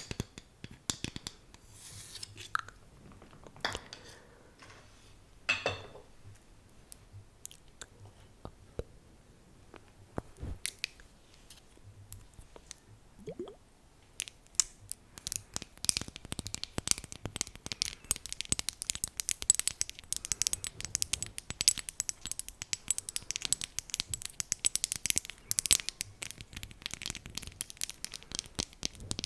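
Close-up ASMR tapping on objects: scattered single taps and small handling sounds at first, then from about halfway a dense, fast run of crisp taps.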